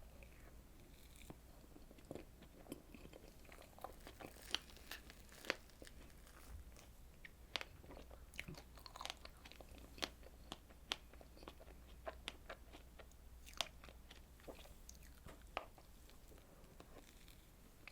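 Close-miked eating sounds of a strawberry dessert being chewed, with many sharp, irregular crunchy clicks.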